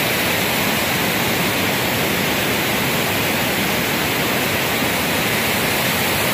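Steady rushing of a waterfall and the river running into it: a constant, unbroken hiss of falling water.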